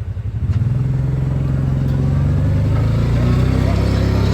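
A vehicle's engine revs up from a pulsing idle about half a second in and holds at high revs for a donut, its pitch climbing again near the end.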